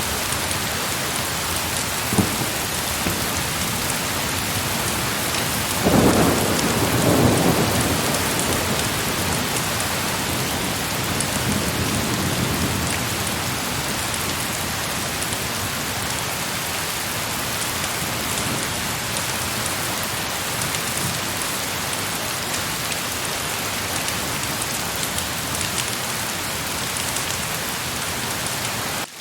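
Steady heavy rain. A roll of thunder comes in about six seconds in and rumbles away over several seconds.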